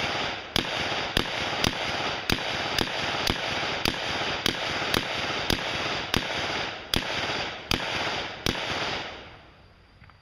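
Semi-automatic gunfire from a 9mm AR-platform carbine with a 10.5-inch upper, shot at a steady pace of about two rounds a second, each crack followed by echo. The string stops about 8.5 seconds in and the echo dies away.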